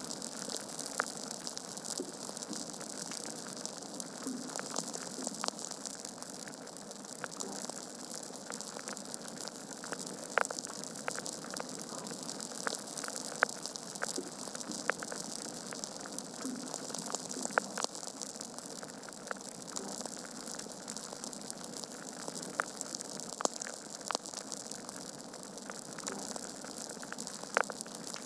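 Wood fire in a fireplace crackling, with a steady hiss of flames and irregular sharp pops and snaps from the burning logs.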